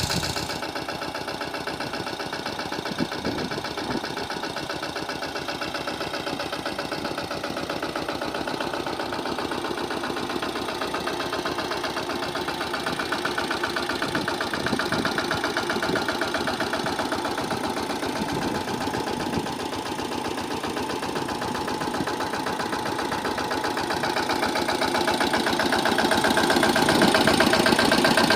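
Engine of a sanedo mini tractor running steadily with a fast, even beat, getting louder over the last few seconds.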